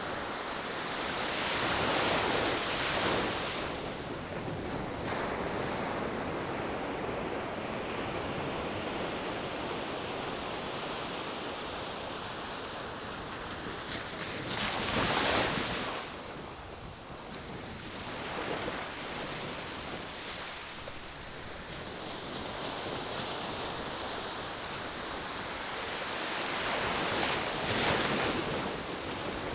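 Ocean surf breaking on a beach, heard from a distance: a steady wash that swells into a louder surge about every twelve to thirteen seconds, three times.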